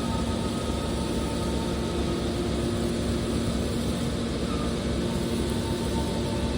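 Horizontal aluminium can baler running, a steady machine hum with several held tones over a noisy bed.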